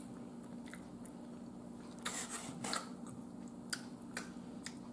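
A person chewing a mouthful of soft pork and beans, quietly, with a few short wet mouth clicks scattered through it.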